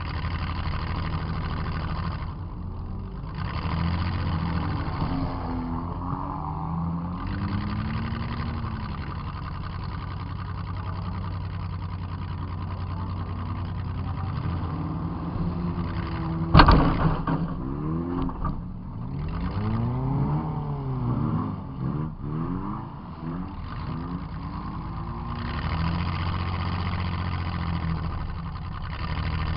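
Demolition derby car's engine revving up and down as it drives, heard from inside the car. A little past halfway comes one sharp crash of a hit, the loudest sound, and the engine then revs in several quick rises and falls.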